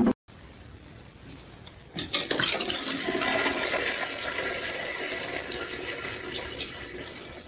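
Rushing, gurgling water that starts suddenly about two seconds in and slowly dies away.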